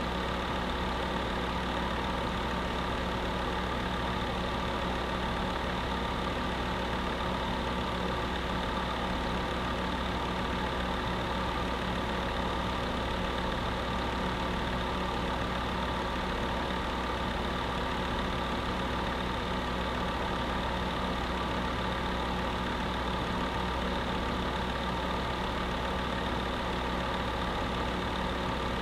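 Space heater running with a steady, unchanging hum and airy noise.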